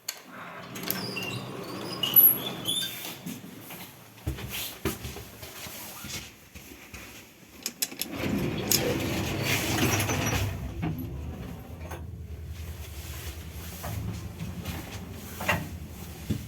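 1981 MLZ passenger lift: the doors slide and clunk shut with clicks, then about eight seconds in the AN-180 drive motor and gearbox start and run with a steady low hum as the car travels.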